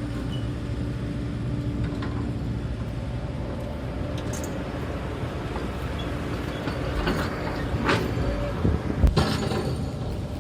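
Hydraulic excavator's diesel engine running steadily, with several sharp clanks and knocks in the last few seconds.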